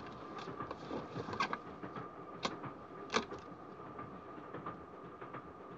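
Steady rumble of a moving train heard inside a passenger compartment, with a faint steady hum running through it. A few short sharp clicks stand out, the loudest about three seconds in.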